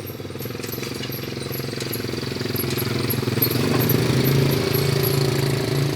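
Motorcycle engine running with a rapid, even pulse, growing louder over the first four seconds and then holding steady.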